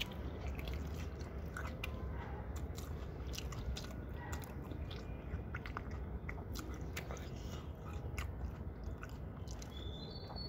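A person chewing food close to the microphone, with scattered small clicks of mouth and bite noise over a low steady background.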